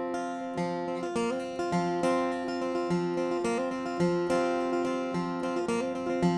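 Acoustic guitar picking a ringing instrumental intro to a country song, with a low bass note repeating about once a second under sustained chords.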